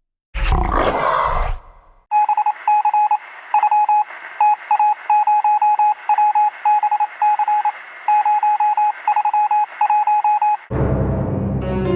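A sound effect of a single-pitched electronic beep keyed in quick, irregular groups over a thin telephone-line-like hiss, resembling a telephone or radio signal; it is preceded by a short noisy burst and cut off near the end as a music cue begins.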